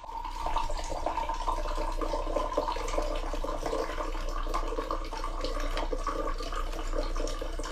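Steady running water, like a tap running into a sink, with a low steady hum underneath.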